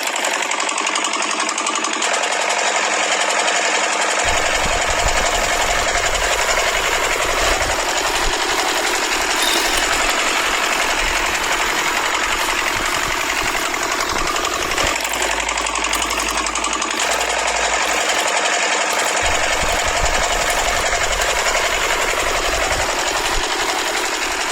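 Small electric motor of a homemade toy tractor running steadily, a buzzing whir with a fast mechanical rattle.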